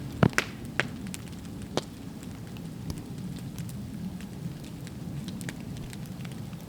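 Campfire crackling: scattered sharp pops and snaps over a steady low hiss, with the loudest pops in the first two seconds.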